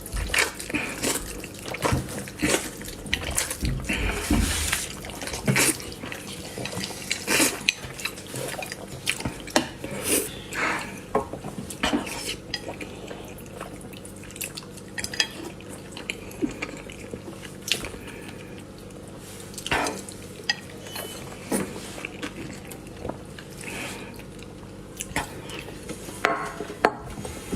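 Utensils clicking and knocking against a bowl while noodles are eaten, in scattered irregular taps throughout.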